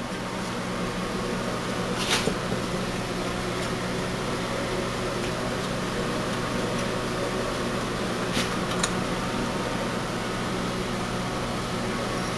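Onan twin-cylinder engine spun over by its electric starter with a spark plug out, a steady whirring hum with no firing: it cranks but will not start, its plug staying dry despite the fuel.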